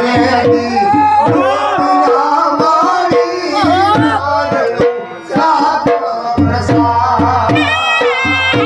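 Gujarati folk music: a sarnai (double-reed pipe) plays a bending, ornamented melody over steady dhol drumming and a low drone. The music drops back briefly about five seconds in, then resumes.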